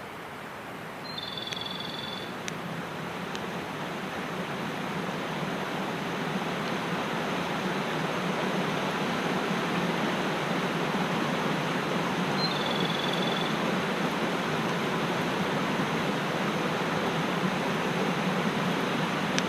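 A mountain stream rushing steadily, growing louder over the first several seconds and then holding level. A brief high call sounds twice, once about a second in and again about two-thirds of the way through.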